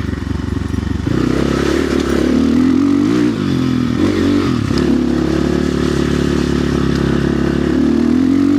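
RXB250XL dirt bike engine riding under throttle. About a second in the revs rise, with brief drops in pitch around three and four and a half seconds in, then a steady pull until another drop near the end.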